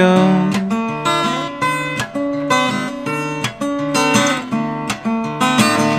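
Acoustic guitar playing an instrumental passage of plucked notes over a moving bass line.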